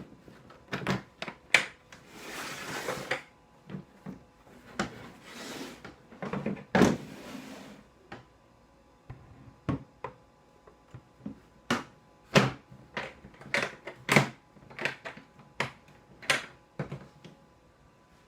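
A new cordless track saw and its packaging being handled: a string of knocks, clicks and a few louder thuds, with stretches of rustling packaging about two seconds in and again from about five to eight seconds in.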